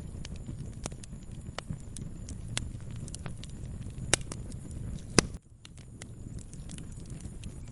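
Wood fire crackling in a fireplace: irregular sharp pops and snaps over a low, steady flame rumble. The two loudest pops come about four and five seconds in, and the sound dips briefly just after the second.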